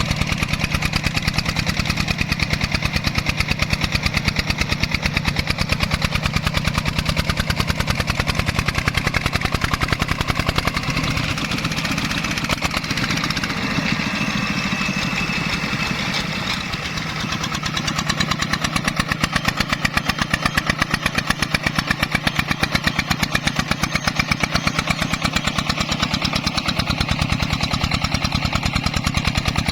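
Single-cylinder diesel engine of a Vietnamese công nông farm truck chugging steadily in rapid, even firing pulses, briefly a little softer midway through.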